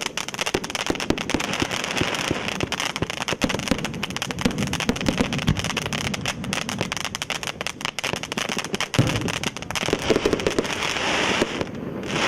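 Pyrotechnic ground fountain (A4120 "Hedgehog in the Fog") spraying sparks with a steady hiss and dense, irregular crackling. The hiss thins out near the end.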